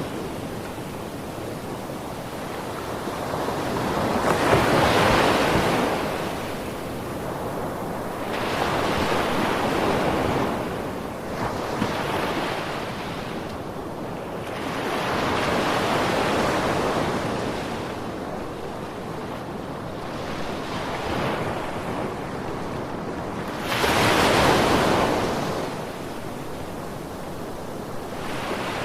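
Ocean waves breaking and washing on a shore, rising and falling in slow surges every few seconds, with two louder breakers about a third of the way in and near the end.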